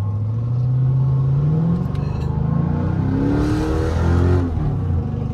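Car engine accelerating, its pitch climbing steadily for about two seconds, then rising again a little later with a brief hiss.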